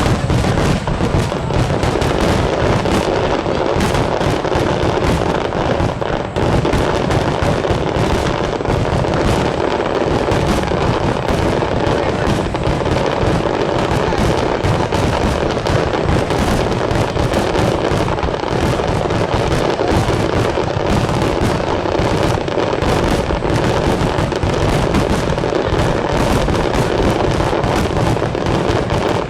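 Dense barrage of fireworks going off, many bangs and crackles a second without a break.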